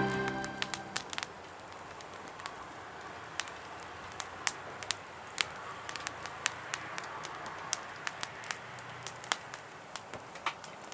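Charcoal fire crackling in a fire pit: irregular sharp pops and snaps over a low steady hiss.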